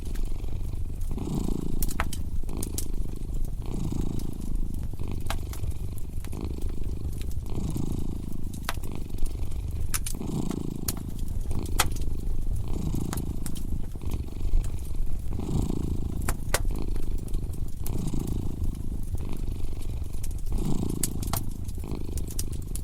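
Domestic cat purring steadily, swelling and easing about once a second with each breath in and out, over a crackling wood fire whose pops come as scattered sharp snaps.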